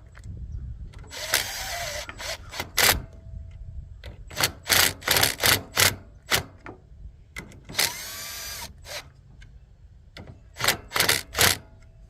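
Power drill/driver run in short trigger bursts, driving the screws that hold the cover onto the heater housing, with one longer run near the middle whose pitch rises and falls. The screws are snugged gently, since overtightening would crack the housing.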